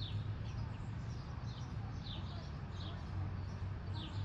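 Small birds chirping: short, high, downward-sliding chirps repeated irregularly, over a steady low hum.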